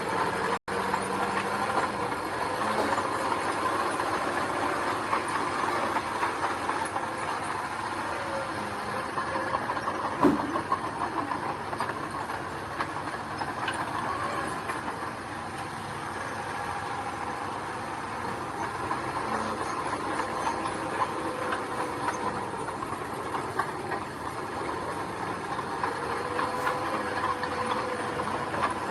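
Heavy earthmoving machinery working steadily, a diesel engine running under a dense mechanical clatter, with one sharp knock about ten seconds in.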